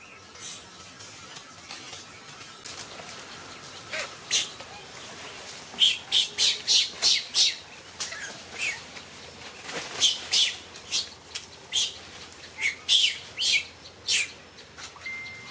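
Monkeys making short, high-pitched squeaking calls, mostly in quick runs of several in a row, the densest run about halfway through.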